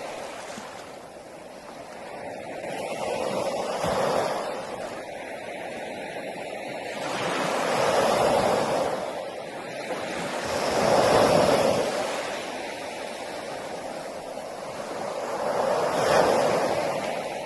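Sea waves breaking on a beach, the surf swelling and washing back about four times, roughly every four seconds.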